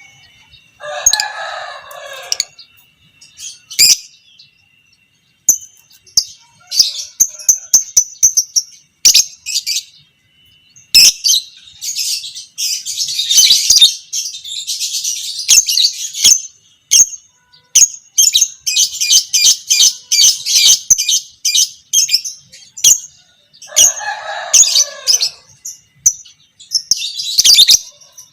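Lovebird chattering in long, rapid, high-pitched trills, the prized 'ngekek panjang' of a fighter lovebird, broken up by sharp single chirps. A lower, harsher sound cuts in about a second in and again near the end.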